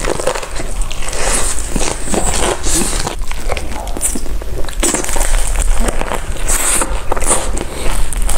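Close-miked eating: crunchy fried food being bitten and chewed, a dense irregular run of crackles and crunches.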